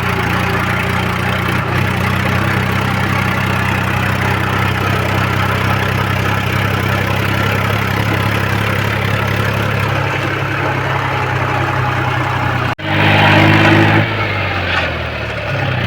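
Mahindra 265 DI tractor's diesel engine running steadily, with a uniform engine note. Near the end it breaks off abruptly, then comes back louder, its pitch rising and then falling.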